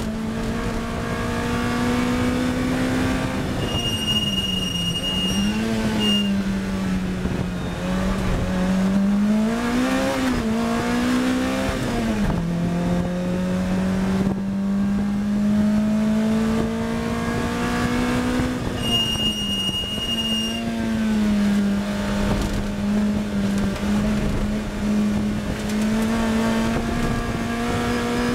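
Onboard sound of a Lotus Elise R's engine at full effort on track, its note climbing slowly under acceleration and dropping sharply three times as the driver shifts or brakes, and rising and falling with the throttle through a run of bends. A high steady whine sounds twice, each time for about two seconds.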